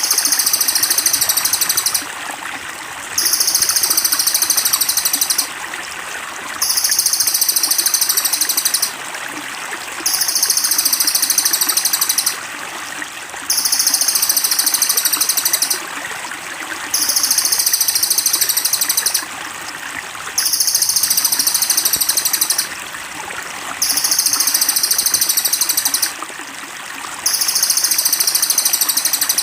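A songbird's high, rapid, buzzy trill, about two seconds long, repeated every three to four seconds as a looped training recording. Underneath it, water trickles steadily.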